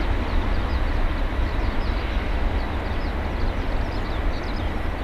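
Steady low rumble of a Boeing 747-400 freighter's jet engines, with faint short high chirps repeating throughout.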